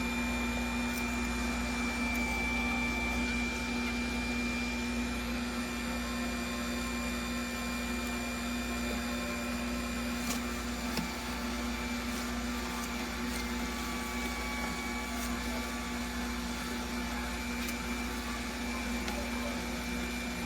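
Electric juicer motor running steadily, a constant hum with a thin high whine and a few faint clicks about halfway through.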